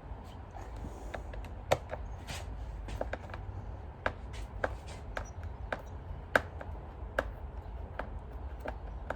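Scattered small clicks and taps of a screwdriver and screws against a Dyson vacuum's plastic housing as it is unscrewed. Two of the clicks, about two seconds and six seconds in, are sharper than the rest.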